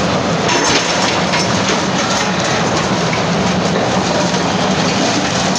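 A heavy machine's engine running steadily, with scattered clanks and knocks, typical of demolition equipment at work.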